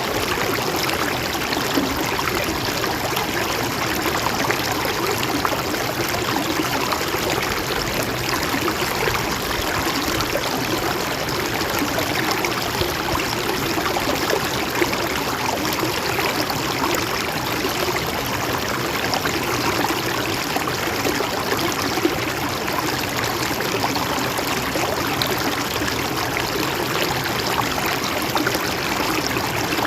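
Mountain stream flowing steadily over rocks, a continuous rushing with fine trickling and splashing detail.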